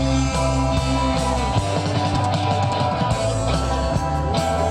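Live rock music: guitar, bass and drum kit playing without vocals, with steady held low notes under the guitar.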